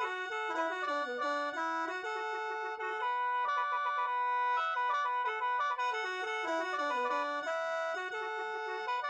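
Khaen, the Lao bamboo free-reed mouth organ, playing a melody over held drone notes, with quick runs of notes falling and climbing back in repeated phrases.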